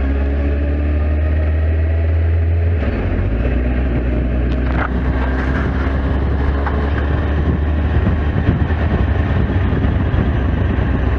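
Kawasaki Z750S inline-four engine running steadily at low road speed, heard from the bike itself, with a shift in its low note about three seconds in.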